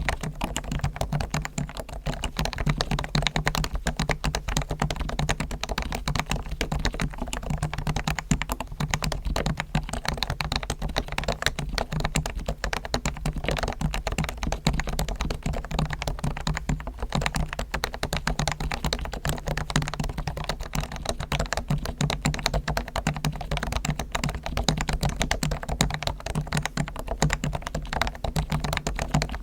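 Continuous fast typing on a Realforce R1 keyboard with Topre electrostatic capacitive switches, fully lubed with Krytox on the springs and sliders, stabilizers tuned and case damped with foam: a dense, unbroken stream of keystrokes.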